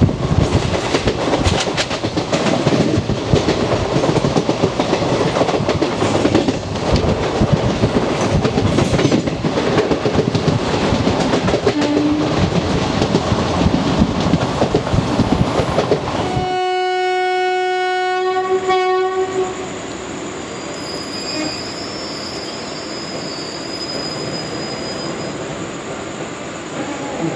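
Wheels of an old ICF passenger coach clattering rapidly over rail joints at speed. About sixteen seconds in, the WAP4 electric locomotive's horn sounds one steady blast of about three seconds. After the horn the running settles into a quieter, smoother rumble with a faint high whine.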